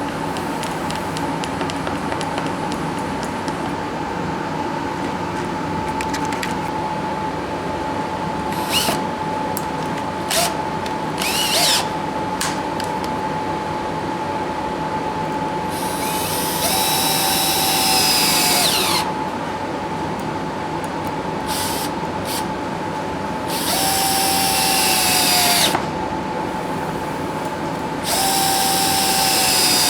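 Power drill running with a steady motor whine, cutting in short bursts and then three longer stretches; during each cut the motor's pitch sags a little under load.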